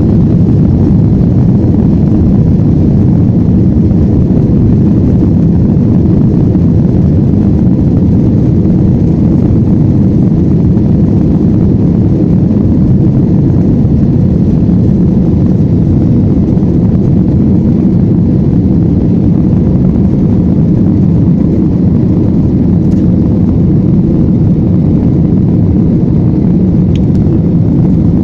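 Aircraft engine noise during takeoff: a loud, steady low rumble that stays even throughout.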